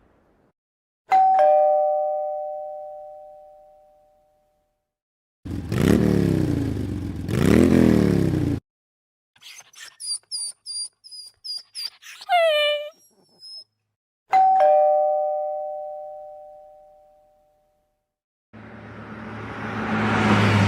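A two-note ding-dong doorbell chime rings twice, each time fading slowly. Between the two chimes come two rising-and-falling swoops and a run of short high chirps. Near the end a low rumble with a steady hum grows louder.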